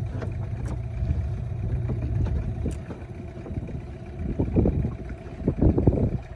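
Boat engine idling with a steady low hum, then wind gusts buffeting the microphone in uneven surges from about four seconds in.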